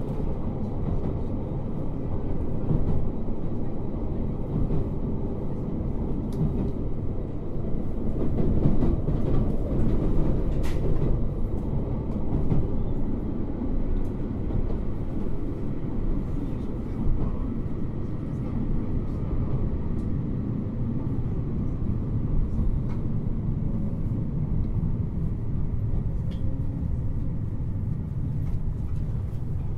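Running sound heard inside a 721-series 3000-subseries electric multiple unit: a steady rumble of wheels on rail and car body.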